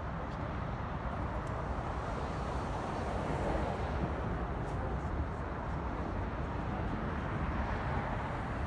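Steady low outdoor rumble, swelling slightly a few seconds in.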